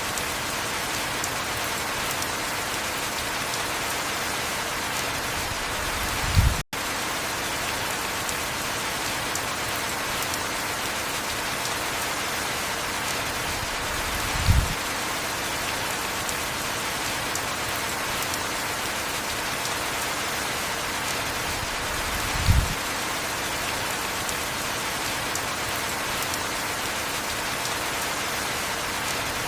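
Steady heavy rainfall, an even dense hiss. A short low thump comes about every eight seconds, three times in all, and the sound cuts out for a split second just after the first thump.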